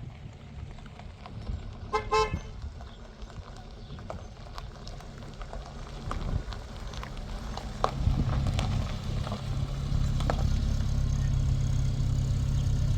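A car horn gives one short, stuttering toot about two seconds in. From about eight seconds in a vehicle engine runs steadily and low, louder than the rest, with scattered small clicks and knocks throughout.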